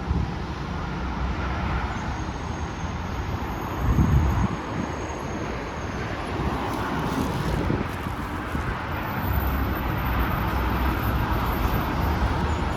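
Steady interstate traffic noise, cars rushing past in a continuous rumble, with a louder swell about four seconds in as a vehicle passes close.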